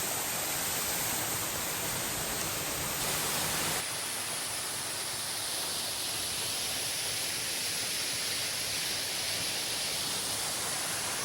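Waterfall: a steady rush of falling water, its sound turning thinner and brighter about four seconds in.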